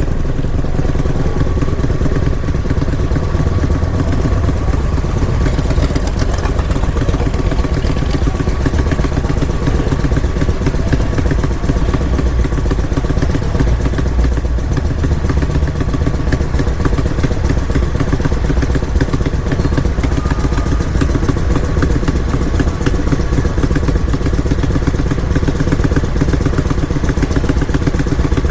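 Motorcycle engine running steadily, with a dense, even low-pitched pulsing that holds throughout.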